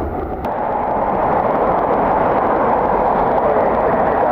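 Steady roar of a jet airliner's engines, a rushing noise with a click about half a second in after which the low rumble eases.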